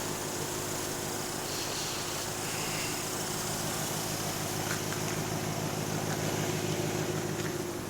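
Steady hum of an idling car engine with a fan running, a few faint clicks here and there.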